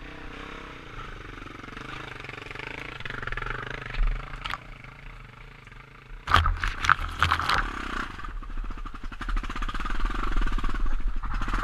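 Off-road motorcycle engine running, steady at first, then suddenly louder and rougher about six seconds in as it is revved hard, with a rapid clattering to the end.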